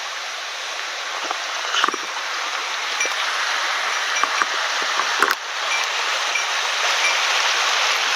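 Small mountain stream rushing steadily over rocks, with a few brief clicks and one sharper knock about five seconds in.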